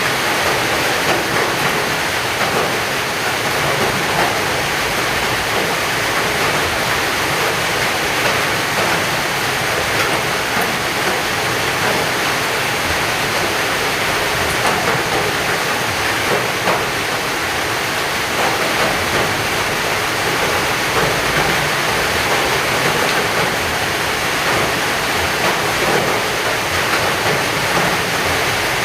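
Heavy rain falling steadily as a dense, even hiss, with a few sharper drop ticks scattered through it.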